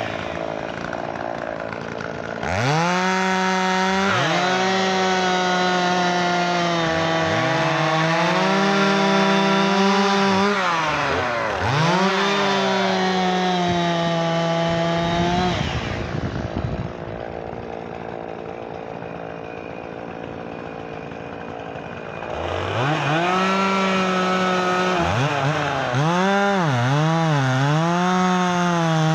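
Chainsaw cutting firewood, revving up to full throttle and dropping back again and again, its pitch sagging and wavering under load in the cut. It eases to a quieter lull for several seconds past the middle, then revs up again.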